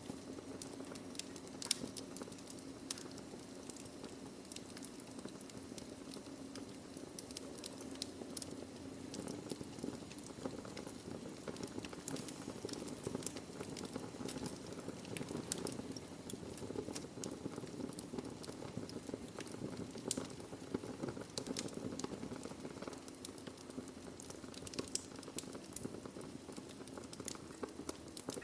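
Burning logs crackling in a fireplace: frequent sharp pops and snaps, irregularly spaced, over a steady low rush of the fire.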